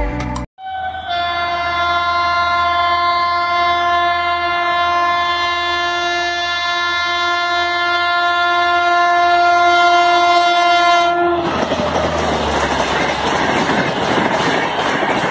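A WAP-5 electric locomotive's horn sounds one long, steady blast for about ten seconds. It stops abruptly and is replaced by the loud rushing and clatter of the Gatiman Express passing at about 160 km/h.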